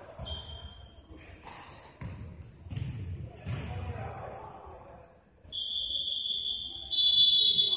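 Basketball shoes squeaking on a gym court during play: a string of short high squeaks, then a longer, louder squeal near the end, over ball bounces and players' voices echoing in the hall.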